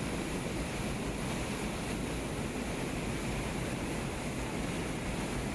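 Steady rushing noise of wind and river water, with a low rumble from wind buffeting the microphone.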